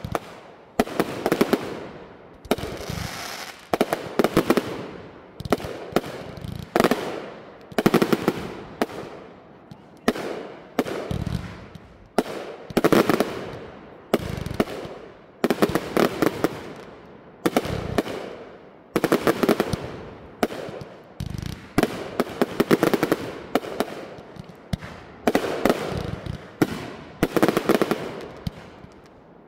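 Fireworks firing in a steady string, about one shot a second, each a sharp bang followed by crackling as the stars burst and fade.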